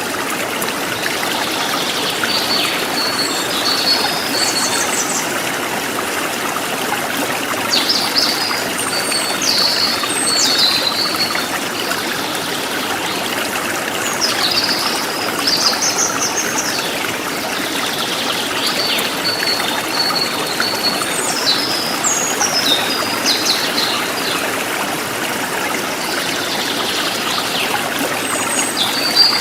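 Forest stream running steadily, with a songbird singing short, high chirping phrases over it every few seconds.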